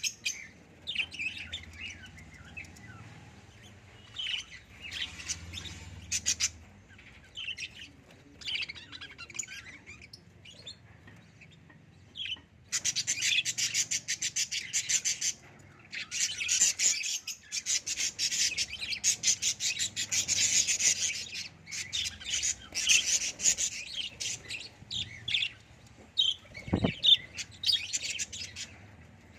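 Ten-day-old lovebird chick calling: scattered high-pitched chirps, then long runs of rapid chirping from about halfway through. A soft thump near the end.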